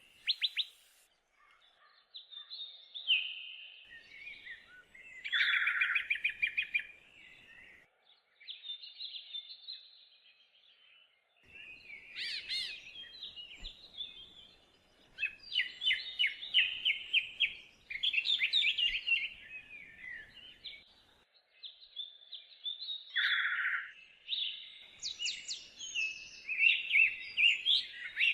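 Songbirds singing: bouts of quick chirps, trills and warbled notes lasting one to three seconds each, with short pauses between.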